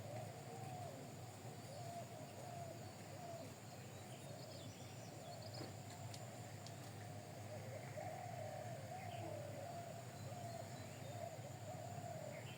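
Birds calling: a low wavering warble that carries on throughout, with a few short high chirps near the middle, over a steady low hum.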